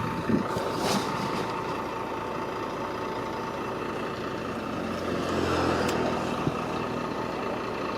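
Engine of heavy earthmoving machinery running steadily, with a few knocks in the first second. About five seconds in, the engine note swells for about a second, then settles back.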